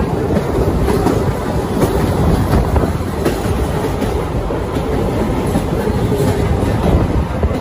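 MEMU electric passenger train running at speed, heard from on board: a steady loud rumble of wheels on the rails with occasional faint clicks.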